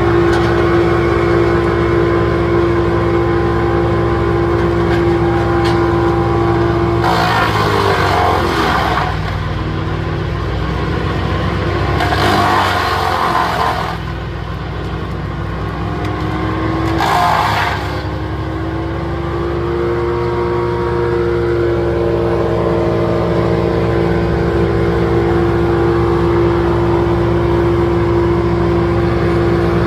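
Wood chipper engine running steadily, with three bursts of rough grinding as branches are fed through. The engine pitch sags under the load and then climbs back.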